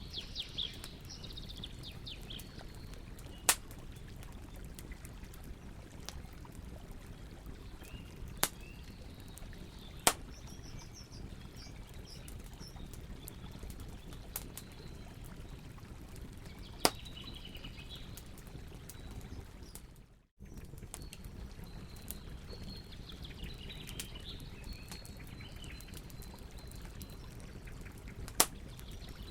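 Campfire burning with a steady low rustle, broken by about five sharp pops of the wood crackling, while small birds chirp in the background. The sound drops out for an instant about two-thirds of the way through.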